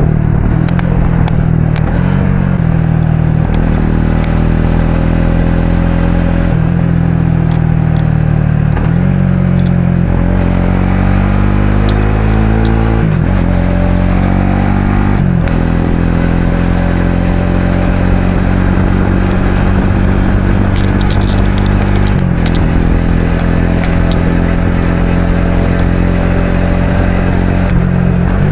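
Suzuki V-Strom SX 250's single-cylinder engine and exhaust under way, pulling up through the gears: the pitch climbs steadily and drops back at each of several shifts.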